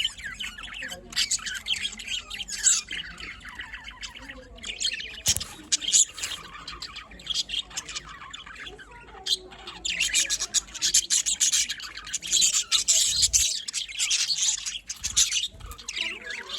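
A flock of budgerigars chattering, with dense overlapping warbles, chirps and squawks, busiest about ten seconds in.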